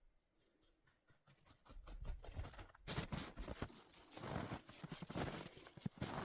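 Footsteps crunching in snow. The steps start faint and grow louder over the first two seconds, then go on as a steady run of crisp crunches.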